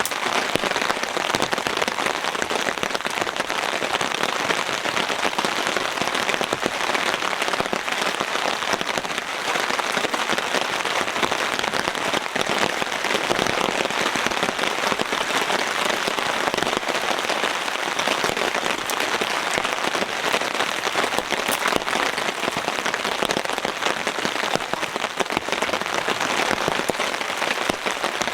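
Heavy rain falling without a break, a dense, even patter of countless drops.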